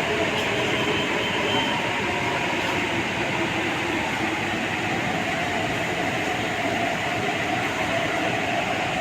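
MTR East Rail line R-train running, a steady rail rumble with a faint whine held at an even pitch.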